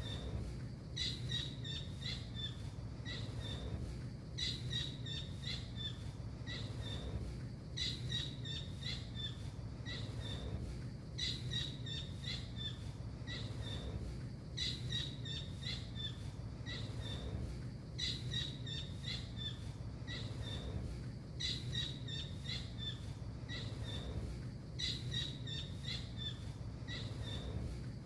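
Blue kingfisher (tengkek biru) calling in a looped training recording: a burst of rapid, high, sharp chirping notes that repeats about every three and a half seconds, over a steady low hum.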